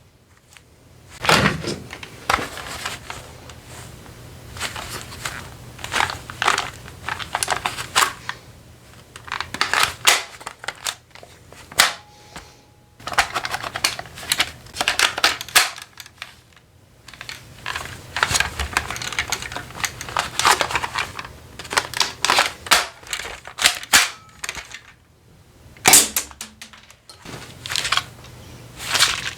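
Airsoft guns being handled and reloaded: a long run of sharp clicks, clacks and rattles in clusters, with short pauses between them.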